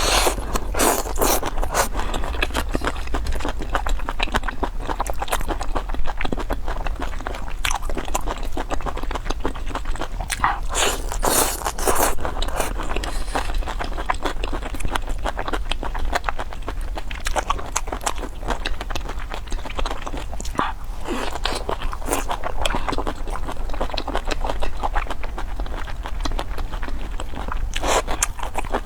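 Close-miked eating: steady chewing with wet mouth clicks and smacks, broken by louder crunching bites now and then.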